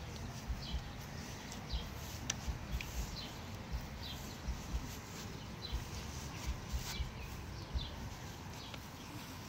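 Small birds chirping outdoors: short high calls, each sliding down in pitch, come every second or so, over irregular low thumps of handling or wind on the microphone.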